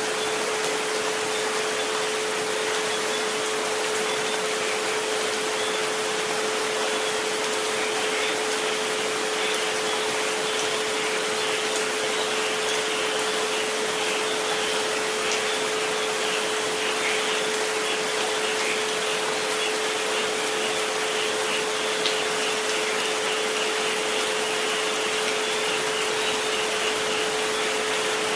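Steady rain hiss mixed with a constant pure tone at 432 Hz and a fainter one at 528 Hz, the sleep and relaxation frequencies.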